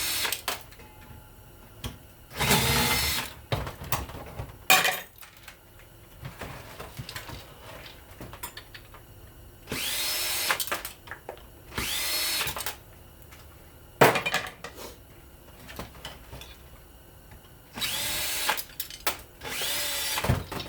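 Power drill running in short bursts, each spinning up with a rising whine, as screws are driven out of a ceiling fan's parts; a single sharp knock about two-thirds of the way through.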